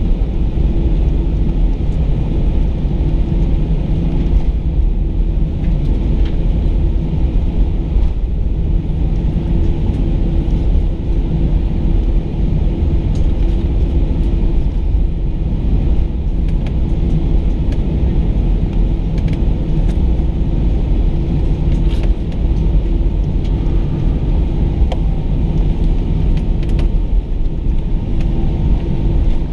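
Airbus A320 engines running, heard inside the passenger cabin as a loud, steady low rumble with a constant hum over it.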